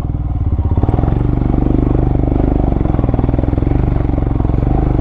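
Vehicle engine running steadily under load, with a fast, even firing pulse, as the vehicle climbs a rough off-road hill trail.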